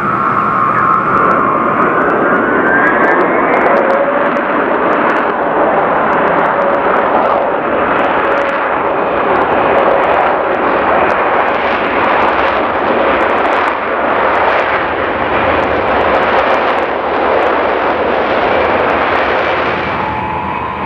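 Ilyushin Il-76's four turbofan jet engines during landing: a high engine whine rises in pitch over the first few seconds and gives way to a loud, rushing roar with crackle. Near the end the roar eases and a steadier whine returns.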